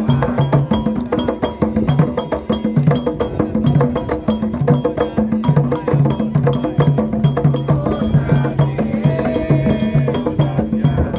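Candomblé toque played by ritual drummers: low hand drums beat a repeating rhythmic pattern under a fast, even stream of sharp high percussion strokes.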